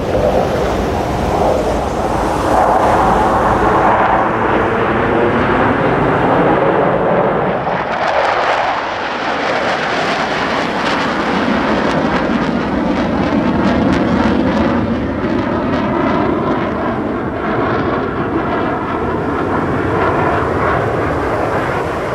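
Thunderbirds F-16 fighter jets flying past: a loud, continuous jet roar that swells and shifts in pitch as they pass, turning crackly from about a third of the way in.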